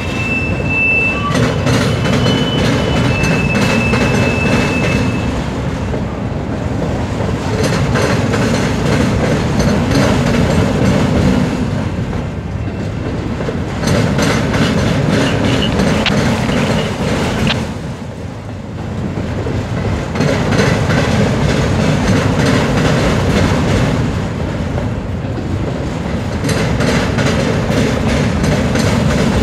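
Freight train of autorack cars rolling by with a steady rumble and clickety-clack of wheels over the rails, with a thin, high wheel squeal in the first few seconds.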